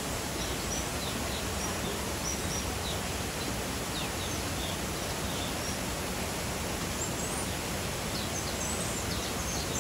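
Birds in a mixed-species aviary chirping with many short, high calls, scattered and busier in the second half, over a steady even background hiss.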